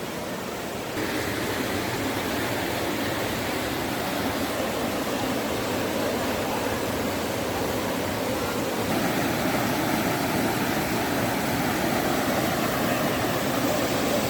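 Rushing water: a steady, even hiss that grows louder about a second in and again at about nine seconds.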